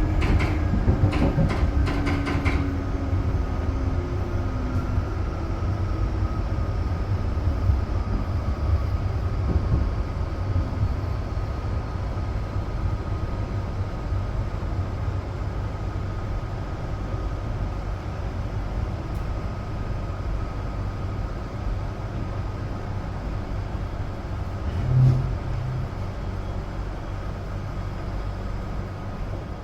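Electric passenger train running on rails with a steady low rumble, a motor tone falling in pitch and a few sharp clicks in the first few seconds. A brief low tone sounds once, about 25 seconds in.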